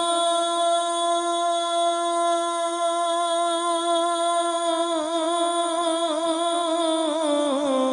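A male naat reciter holding one long sung note in devotional Urdu recitation, the pitch steady with a slight waver, then sliding lower near the end as the melody moves on.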